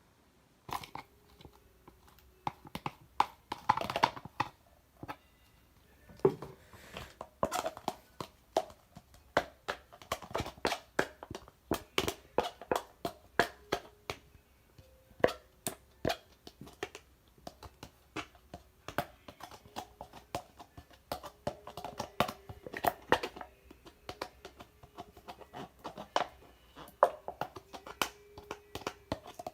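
Slime being squeezed, poked and stretched by hand, giving irregular sticky clicks and pops several times a second, with longer squishy crackles now and then.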